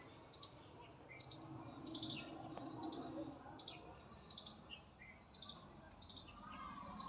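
Small birds chirping, short high chirps repeating every half second or so, faint over a low background hiss.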